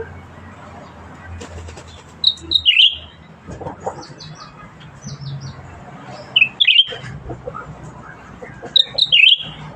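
Cucak ranting songbird calling actively in three short bursts of sharp, falling notes, about two seconds in, at about six and a half seconds and near nine seconds, with faint high chirps between.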